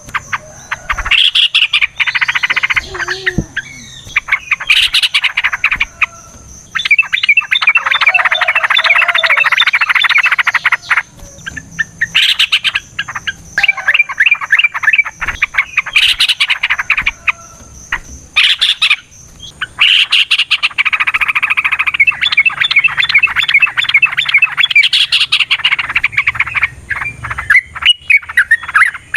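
Yellow-vented bulbul singing long, fast chattering trills in several bursts a few seconds each, the longest near the middle and near the end, over a thin steady high-pitched tone.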